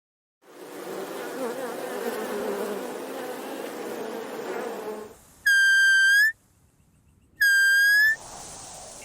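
A buzzing hum for about four and a half seconds, then two loud, steady, even-pitched whistles, each just under a second long and about a second apart, each turning up slightly at the end.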